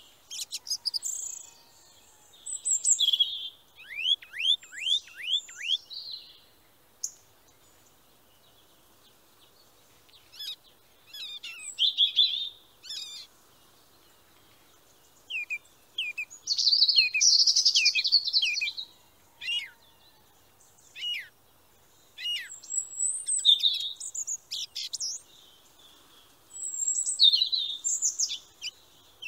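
Songbirds chirping and singing in short bursts of high, quick notes, some sweeping downward, with pauses of a few seconds between phrases.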